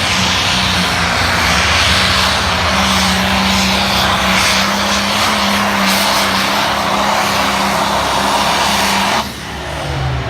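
Limited pro stock pulling tractor's turbocharged diesel engine running loud and steady at full throttle under load during a pull, then backing off abruptly about nine seconds in as the throttle is let off.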